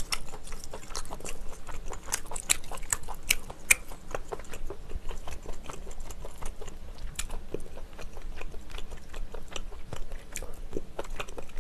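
Close-miked chewing of pen shell meat: many small wet smacks and clicks of the mouth in an irregular run.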